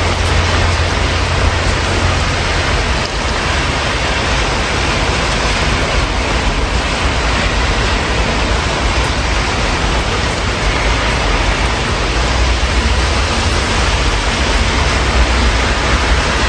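Steady rain heard through an open window, an even hiss, over a constant low rumble of city traffic.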